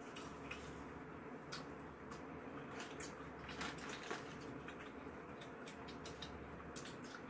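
Close-up mouth sounds of eating: wet chewing and lip-smacking clicks, irregular and soft, a few a second, over a low steady room hum. The clearest smacks come a little before the middle and again about six seconds in.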